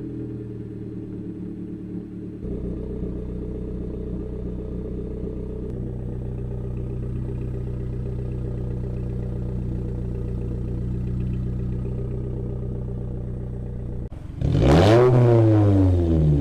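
Toyota Camry with an aftermarket exhaust idling with a steady low drone, then revved sharply about fourteen seconds in, the exhaust note climbing and falling back.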